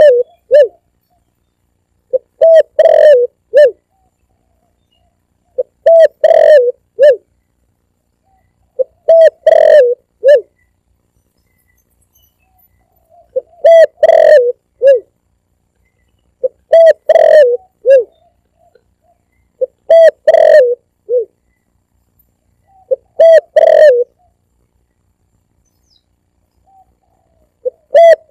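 Spotted dove (tekukur) cooing: a short phrase of several coos, repeated about every three seconds. It is a recorded call played as a bird-hunting lure.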